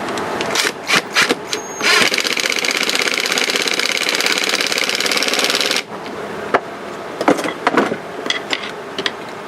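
A small motor-driven tool buzzes steadily for about four seconds, stopping suddenly, with clicks and knocks of parts being handled before and after it.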